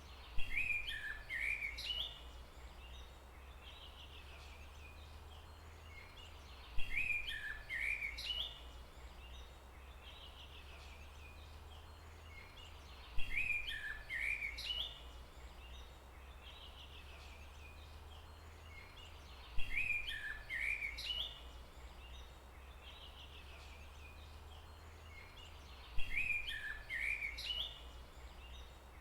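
A songbird's short phrase of quick chirping notes, lasting about two seconds, repeated the same way five times at even gaps of about six seconds, over a steady low rumble.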